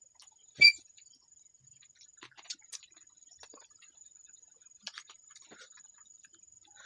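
A man eating fried frog with his hands and chewing: a sharp loud click about half a second in, then scattered small crunches and smacks. A faint steady high whine runs underneath.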